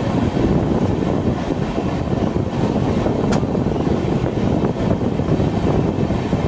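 Passenger train coach running along the track, heard from the open doorway: a steady rumble of wheels on rails, with one sharp click about three seconds in.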